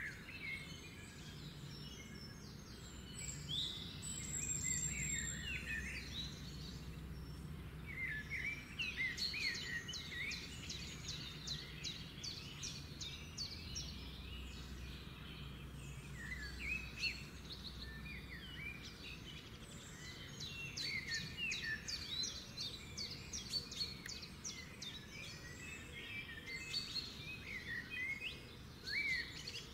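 Small birds chirping in quick clusters of short, high calls, over a low steady hum.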